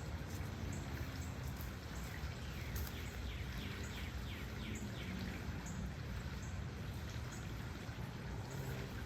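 Steady outdoor background noise with a low rumble, and a quick run of repeated chirps from about two to five seconds in.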